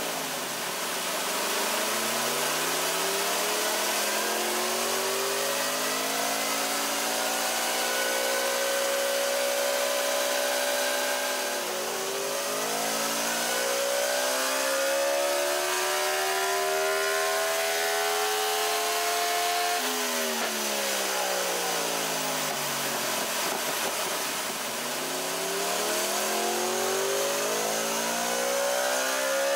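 Yamaha R1's crossplane inline-four, fitted with a full Akrapovic exhaust and custom tune, run under load on a chassis dyno. The engine note climbs steadily, drops abruptly about 12 seconds in and again about 20 seconds in, then dips and climbs once more near the end.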